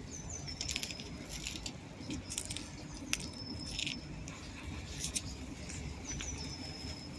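Pigeons pecking at biscuit crumbs on hard ground: scattered sharp taps, some in quick clusters, over a steady low traffic rumble. Three short, high, thin chirps come near the start, in the middle and near the end.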